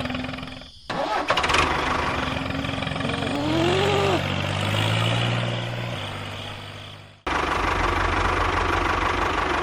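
Engine running in short clips cut together, broken by abrupt cuts about a second in and again about seven seconds in, with a rise and fall in pitch around four seconds in.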